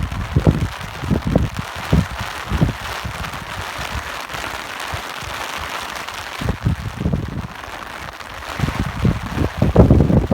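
Steady rain hiss with irregular low gusts of wind buffeting the microphone, heaviest near the end.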